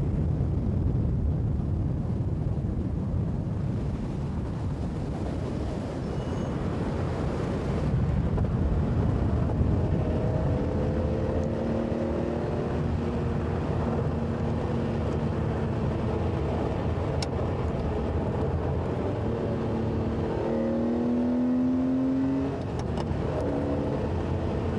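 Ferrari Testarossa's flat-twelve engine running at road speed under a heavy, steady rumble of engine and road noise. From about ten seconds in a humming engine note comes through, rising in pitch a couple of seconds before the end.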